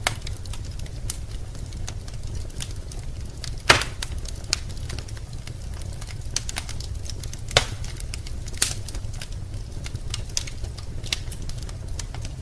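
Wood fire crackling in a fireplace: irregular small snaps and pops, with a few louder pops about four, seven and a half and eight and a half seconds in, over a low steady rumble.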